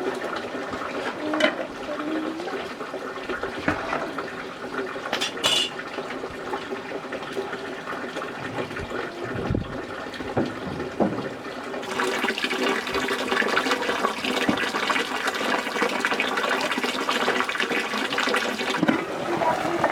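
Water running and splashing, growing louder from about twelve seconds in.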